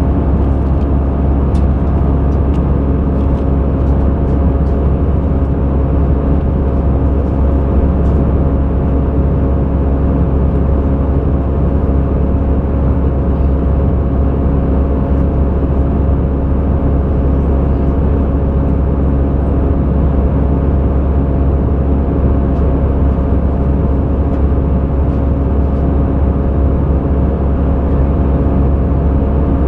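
Airbus A320 in flight, heard from inside the cabin: a steady, loud drone of engine and airflow rumble with a few constant hums over it.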